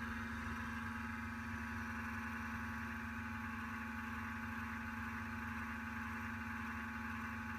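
Steady machine hum with a constant low tone and an even hiss, unchanging throughout.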